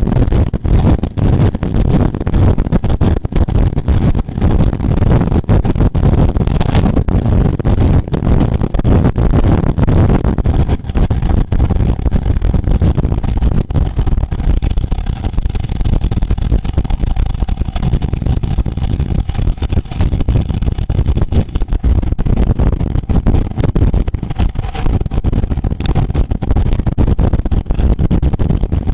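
Wind buffeting the microphone of a camera riding with a racing road bike at speed, with steady road rumble; a faint steady hum joins in around the middle.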